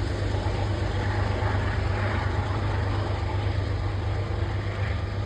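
A steady mechanical rumble with a strong low hum.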